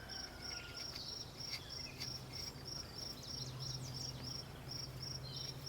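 A cricket chirping in a steady rhythm, about three to four high chirps a second, over a faint low hum.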